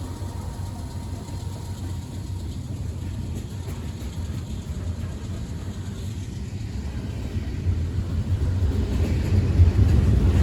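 Low, steady rumble of a passing train, growing louder near the end.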